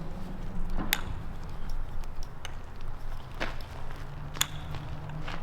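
Footsteps, with a few sharp steps or knocks standing out, over a low steady hum.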